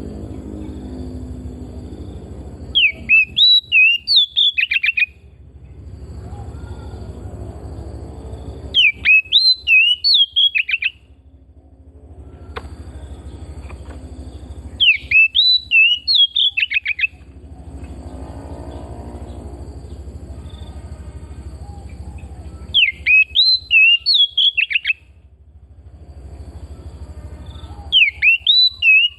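Oriental magpie-robin (kacer) singing. The same short phrase of sharp, fast whistled notes comes about every six seconds, five times, over a low steady rumble in the gaps.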